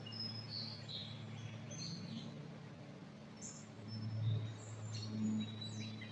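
Birds in a pine forest giving short high chirps and whistles, scattered throughout, over a low steady hum that swells briefly about four seconds in.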